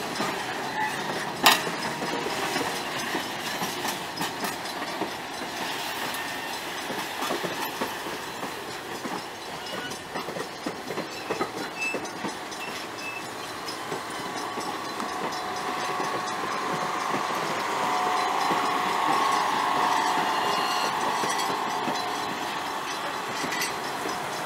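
Napa Valley Wine Train passenger cars rolling past at close range, their wheels clicking and knocking over the rail joints under a steady rumble. A sharp clank comes about a second and a half in, and a steady higher tone sounds for several seconds past the middle.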